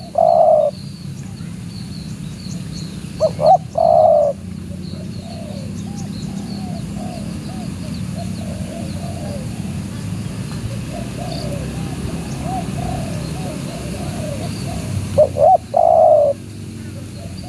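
Spotted dove cooing: three phrases, each two or three short notes followed by a longer, drawn-out coo, at the start, about four seconds in and near the end. Small birds twitter faintly in between over a steady low hum.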